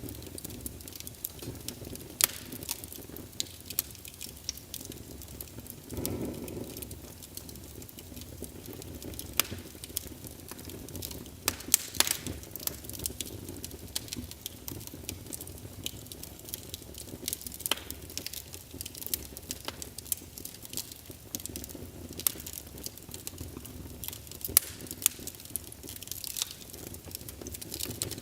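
Logs burning in a fireplace, crackling with frequent irregular sharp pops over a steady low rush of flame. The rush grows briefly louder about six seconds in.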